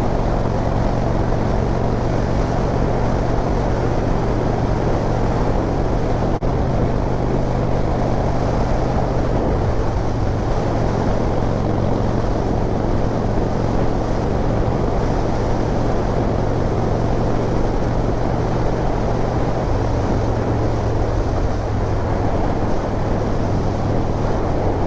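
Harley-Davidson V-twin engine running at a steady cruise, with wind and road noise rushing over the microphone.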